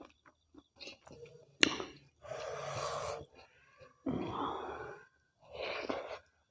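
Close-up eating sounds of a person eating mutton curry with rice: a sharp click about one and a half seconds in, then three long breathy mouth sounds with faint smacks between them.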